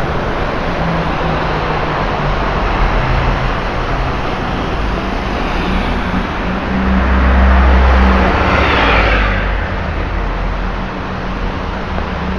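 Steady wash of traffic and tyres on a rain-soaked road. About seven seconds in, a vehicle's engine rumble builds, and it passes with a hiss of spray from its tyres going through standing water, which fades by about ten seconds.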